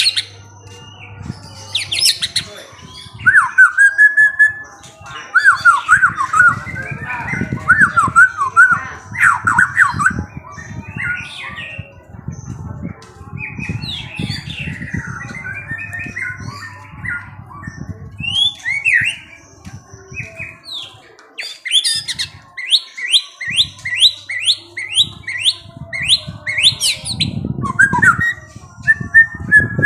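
Songbird singing a varied, chattering song of chirps, whistles and quick trills, with a run of repeated notes, about three a second, in the second half.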